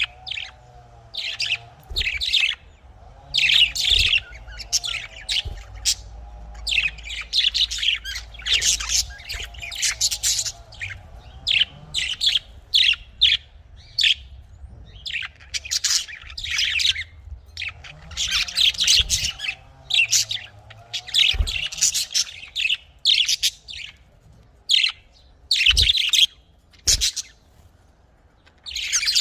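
Budgerigars chattering: rapid bursts of high chirps and warbles, one after another. A couple of low knocks come near the end.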